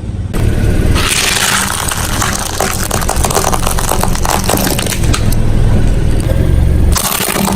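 A car's tyres rolling over and crushing crunchy objects: a long run of cracking and snapping over the running engine, with a last loud burst near the end.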